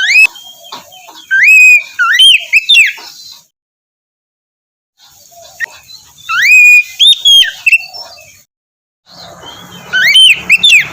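Oriental magpie-robin (kacer) singing loud, clear whistled phrases that glide up and down, in three runs separated by short silences.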